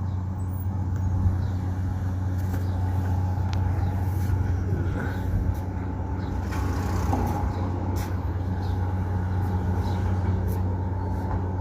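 Boom truck engine running steadily at a constant speed, a deep even hum with a faint higher whine above it and a few light clicks.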